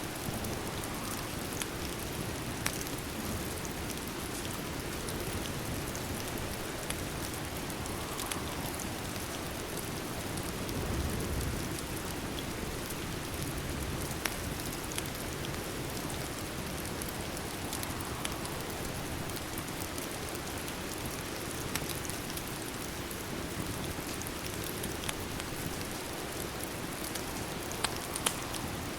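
Steady rain falling, an even hiss with scattered sharp clicks of drops or crackles. A brief low rumble comes about eleven seconds in.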